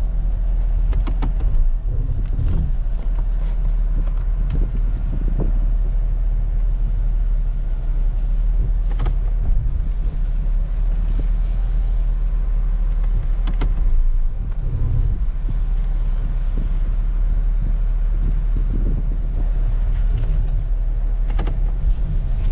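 Car engine running at a steady idle, with a few light clicks and knocks over it.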